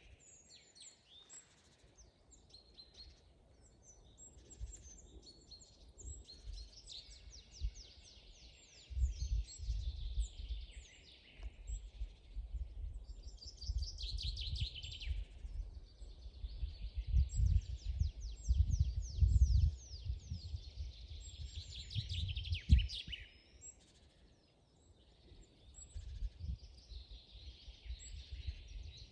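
Songbirds singing: phrases of fast trills made of many quick downward-sweeping high notes, each phrase lasting a few seconds, with short calls between. Bursts of low rumble come and go beneath the song and make the loudest moments.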